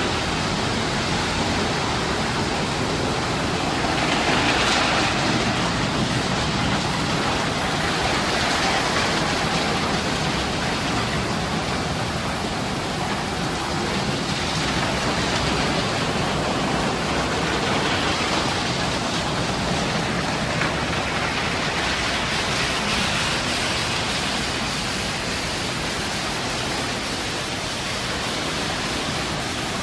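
Automatic tunnel car wash running: a steady rush of spraying water and washing equipment, swelling every few seconds.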